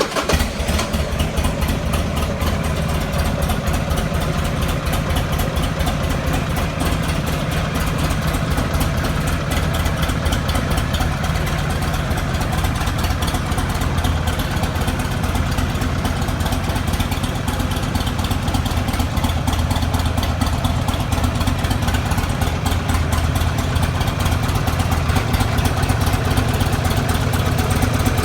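Buell XB12SS's 1203 cc air-cooled V-twin idling steadily through its exhaust just after being started, a little louder near the end.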